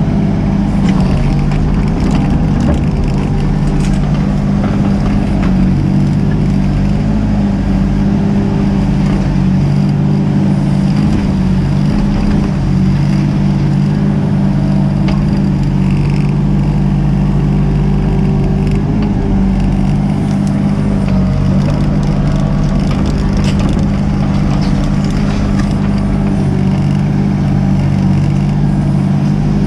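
Mini excavator's diesel engine running steadily at working speed, with a few faint knocks over the drone.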